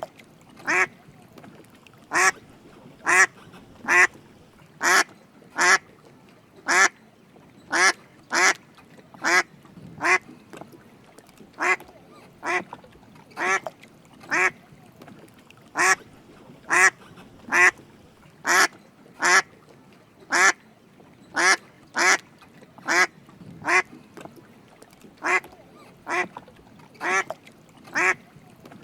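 Drake mallard duck quacking: short, separate quacks repeated at about one a second, in a steady series.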